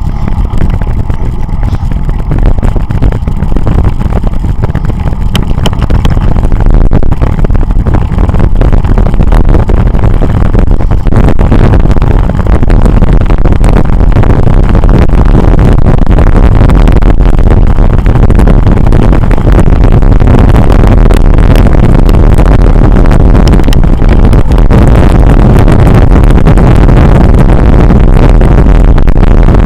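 Heavy wind buffeting the microphone of a camera carried on a bicycle at speed, a steady low rumble that grows louder about six seconds in and then holds.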